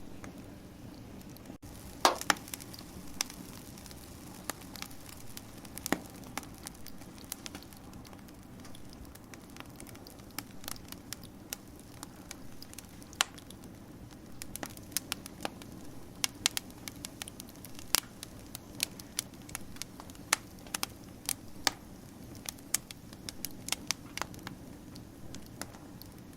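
Wood fire crackling: irregular sharp snaps and pops over a steady low rustle of burning, with one loud pop about two seconds in.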